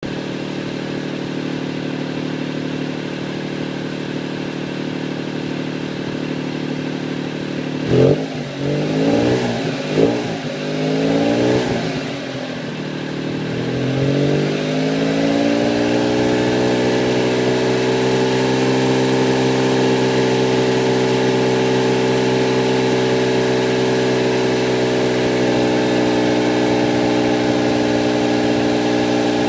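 Honda Beat PP1's small three-cylinder engine with a FEEL's aftermarket muffler, running steadily, then about eight seconds in revved several times with rising and falling pitch before settling into a steady, faster idle. It revs up poorly after nine months sitting, which the owner puts down to stale gasoline or weak spark from the plugs.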